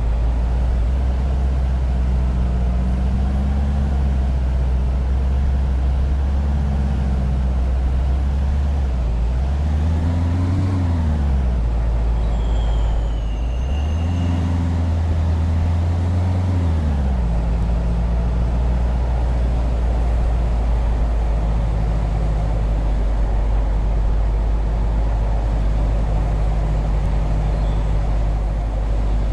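Motor vehicle engine running steadily, revving up and back down about ten seconds in and again from about fourteen to seventeen seconds. A brief high falling squeal comes just before the second rev.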